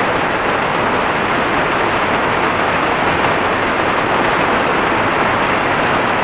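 Heavy rain pouring down steadily, a dense even hiss of rainfall. It falls on ground so hard from drought that most of the water runs off.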